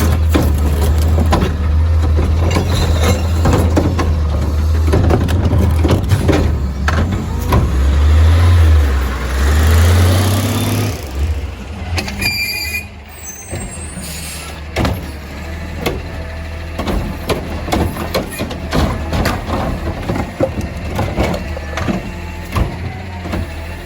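Peterbilt 520 garbage truck engine running loud, its pitch rising as it revs about ten seconds in, with a hiss of air over the top. Then the engine sound drops away, leaving quieter clanks and knocks.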